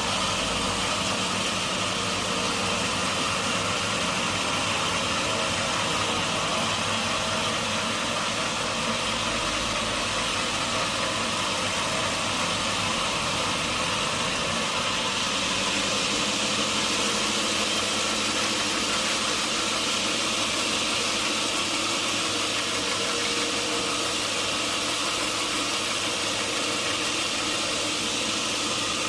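Sawmill machinery running steadily: an even mechanical noise with a faint motor hum and a dense hiss that does not change.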